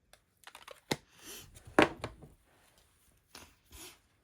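Handling on a craft tabletop: two sharp knocks, the second the loudest, with short rubbing and rustling noises of card and supplies being moved around them.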